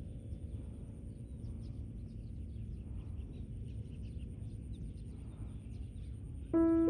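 Steady low outdoor background noise with faint, short high chirps. A gong-like ringing tone fades out in the first moments, and piano music starts loudly just before the end.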